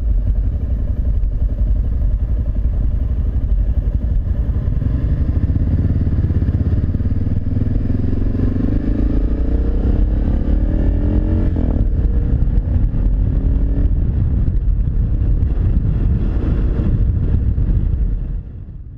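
Suzuki DR650SE's single-cylinder four-stroke engine running at town speed, the pitch rising as it accelerates, dropping at a gear change and rising again.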